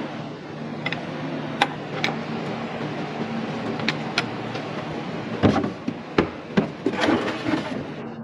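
A series of sharp, irregular knocks, like hammer blows, over a steady low hum.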